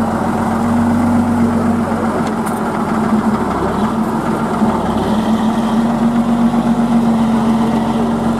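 Truck engine running with a steady hum. The hum eases off for a couple of seconds partway through, then comes back.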